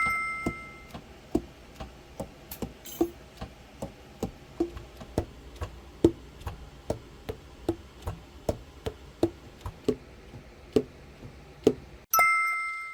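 Saxophone keys being worked without blowing: pads clacking shut on the tone holes of a freshly overhauled Selmer Super Action tenor, each click with a short hollow pop from the body, two or three a second at an uneven pace. A two-note chime sounds at the start and again near the end.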